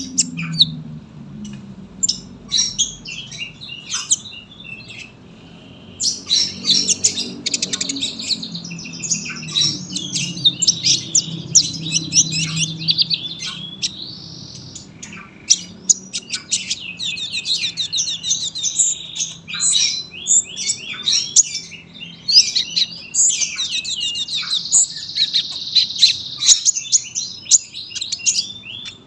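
A sunbird (kolibri) singing long, dense runs of rapid, high chirping trills, with hardly a break after the first few seconds.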